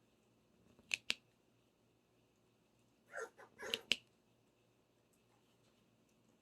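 Pet parrot making sound effects: two sharp clicks about a second in, then a short raspy burst ending in two more clicks.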